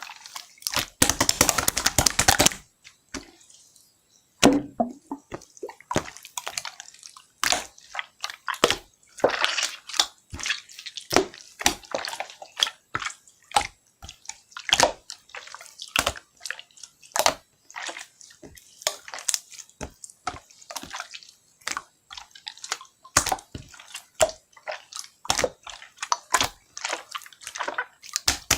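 Slime being squished and pressed by hand, making wet, irregular clicks and pops, with a dense run of crackling about a second in.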